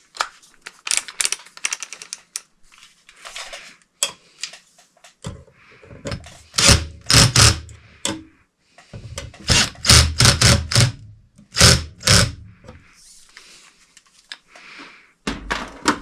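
Ceiling fan mounting hardware being handled: a rapid, uneven run of clicks and clacks, with heavier clunks through the middle.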